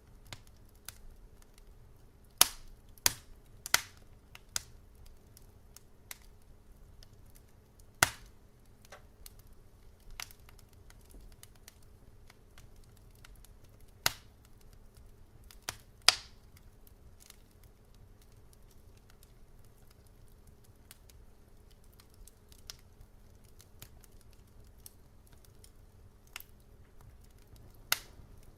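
Wood fire crackling in a fireplace: scattered sharp pops and snaps, a few louder ones standing out, over a faint low steady rumble of the burning fire.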